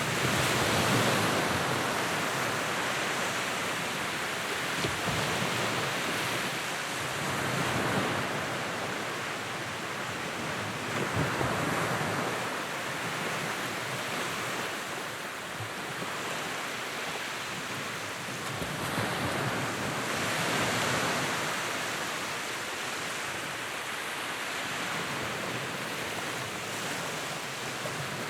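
Wood fire burning in a fireplace: a steady rushing hiss that swells and eases every few seconds, with a few sharp crackles and pops.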